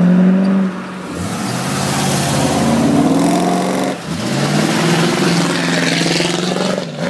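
V8 engines of American muscle cars, a C3 Corvette and a Pontiac Firebird Trans Am, accelerating away one after the other. The engine note climbs twice, with a short break about four seconds in as the Trans Am pulls past.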